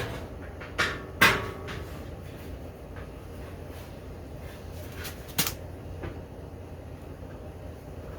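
A few sharp knocks, the loudest about a second in and another about five seconds in, over a steady low hum.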